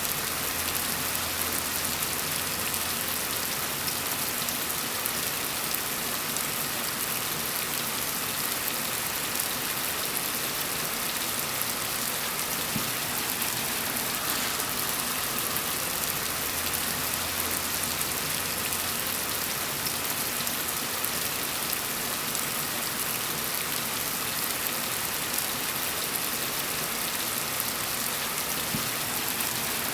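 Steady rain falling on a surface: an even, continuous hiss of many drops that does not change.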